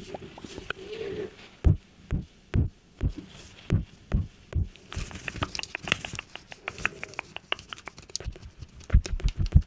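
A series of soft taps about two a second, then lighter quicker clicks, with faster tapping starting near the end.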